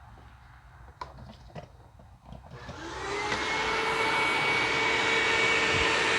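A few handling clicks, then the Hoover WindTunnel upright vacuum's motor starts about two and a half seconds in. Its whine rises in pitch as it spins up, then runs steadily.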